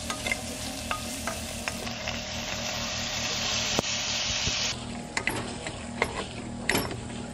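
Food sizzling as it fries in a nonstick pan, with a wooden spoon stirring it and clicking and scraping against the pan now and then.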